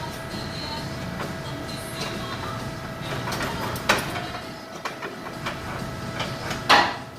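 Metal clanks and knocks from a mechanic freeing a muffler from its hangers under a BMW 330xi, over a steady hum of shop noise. Scattered knocks, one about four seconds in and the loudest and longest clank near the end.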